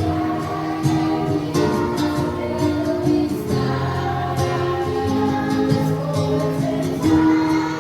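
Choir singing a hymn with instrumental accompaniment, held notes moving from one pitch to the next every second or so.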